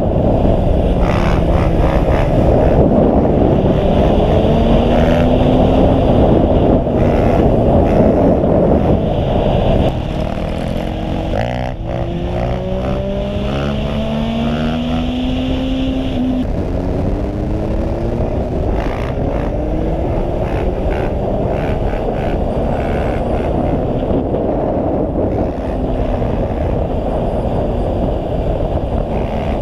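Honda CRF450R's single-cylinder four-stroke engine being ridden off-road, its pitch climbing again and again as it revs up through the gears, under heavy wind rush on the camera microphone. The wind rush eases about ten seconds in.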